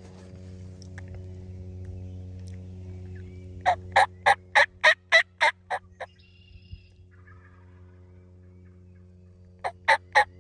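Wild turkey gobbler gobbling twice: a rapid rattling gobble a few seconds in and another starting near the end, over a steady low hum.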